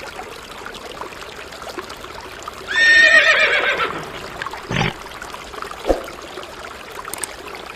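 An animal call about three seconds in, a falling, wavering cry lasting about a second, over a faint steady hiss; two short knocks follow.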